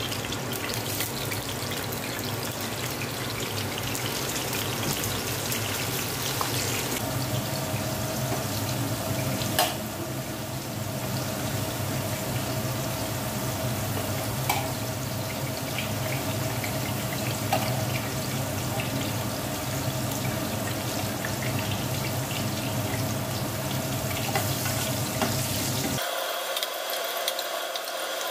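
Sliced potatoes and zucchini sizzling in hot oil in a frying pan, a steady hiss, with a few light clicks of a metal spatula against the pan.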